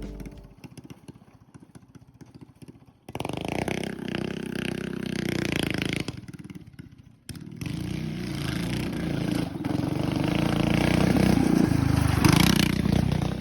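A small gasoline engine running: faint pulsing at first, then running loud from about three seconds in, dropping away briefly around six seconds, then running loud again.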